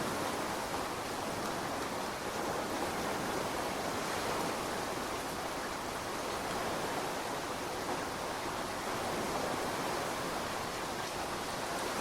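Steady rainfall, an even hiss of rain that holds level without drops or gusts standing out.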